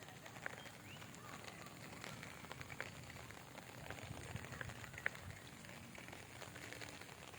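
Light rain: a faint, steady hiss with scattered drops ticking.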